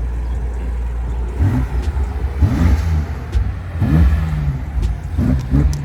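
A car engine idling, then revved in a series of short blips, about four, each climbing in pitch and dropping back.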